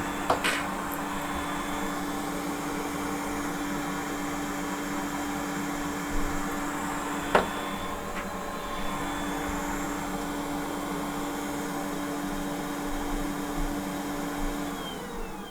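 Hot-air rework station blowing steadily, with a couple of sharp clicks along the way; near the end its blower winds down with a falling whine and the noise fades.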